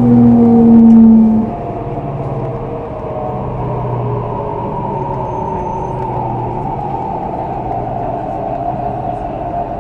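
Mitsubishi Electric IGBT-VVVF traction inverter and motors of a CRRC Changchun EMU motor car heard from inside the car, under steady rail running noise. A loud low hum sounds for the first second and a half, then a steady whine rises slowly in pitch.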